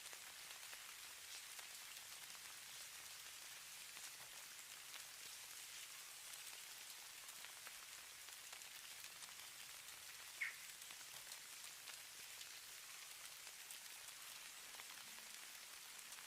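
Snowfall ambience: a faint, steady hiss made of many fine ticks of flakes or ice grains landing on surfaces. About ten seconds in comes a single short, high, slightly falling note.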